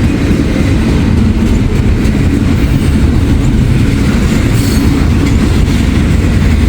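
Intermodal freight train's double-stack container cars rolling past close by: a loud, steady low rumble of steel wheels on rail.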